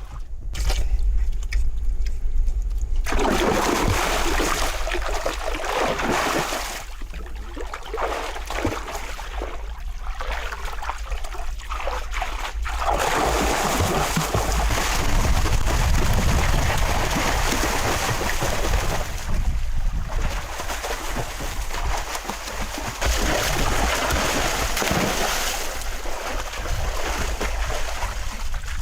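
Water splashing, sloshing and trickling, with a steady low rumble underneath.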